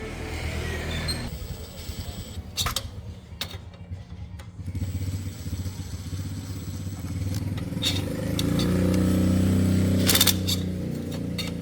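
2004 SYM motorcycle engine running, its revs and loudness rising about eight seconds in, with a few sharp clicks along the way.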